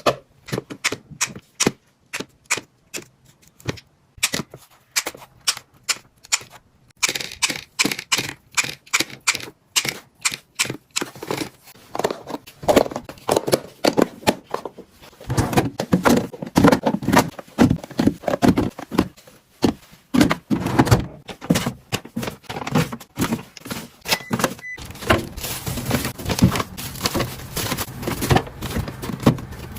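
Containers and food packages being handled and set into a refrigerator: a quick, irregular run of clicks, knocks and rustles, busier in the second half.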